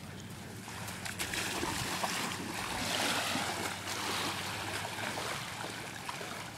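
Jet ski running on the water: the rush of spray and wind over a faint steady engine hum, swelling about three seconds in.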